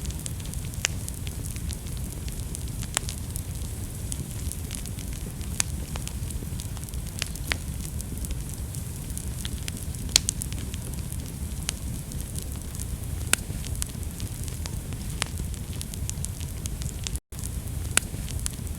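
Wood fire burning in a fireplace: a steady low rumble with frequent sharp crackles and pops at irregular intervals. The sound drops out completely for an instant about seventeen seconds in.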